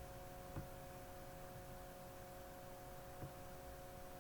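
Faint steady electrical hum of a few pure tones, with two soft clicks.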